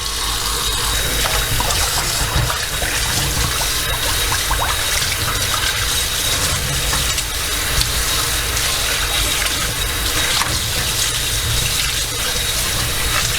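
Kitchen tap running steadily into a sink, with faint clinks of dishes being rinsed and wiped under the stream.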